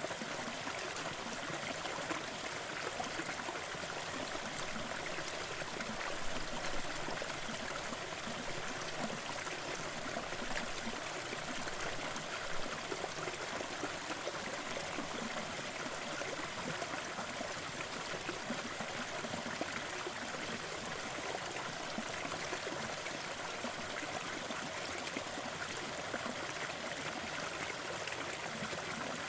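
Waterfall: falling and running water making a steady, even rush with a splashing texture.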